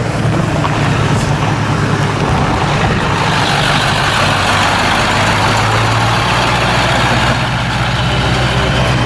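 Car engine running with a steady low hum, joined by a louder rushing sound that builds from about three seconds in.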